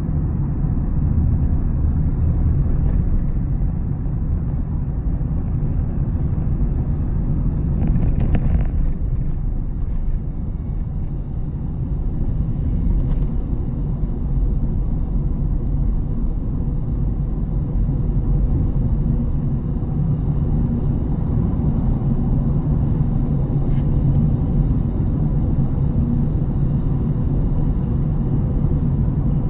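Inside the cabin of a Honda Step WGN Spada Hybrid on the move: steady road and tyre rumble, with a few faint short clicks or creaks about 8, 13 and 24 seconds in. The clicks are an abnormal noise from around the overhead Honda Sensing camera unit, hard to hear under the road noise.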